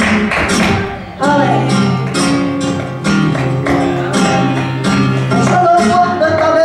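Flamenco music: strummed guitar chords punctuated by sharp percussive strokes, with a short drop in loudness about a second in.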